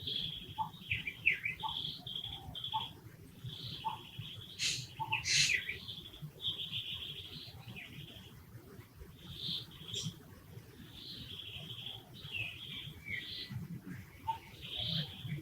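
Repeated short, high-pitched chirping and squeaking animal calls, some rising or falling in pitch, coming one after another with brief gaps.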